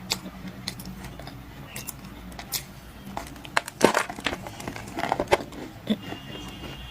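Black clay being bitten and crunched close to the microphone: scattered sharp crunches and crackles, densest about four seconds in and again around five seconds.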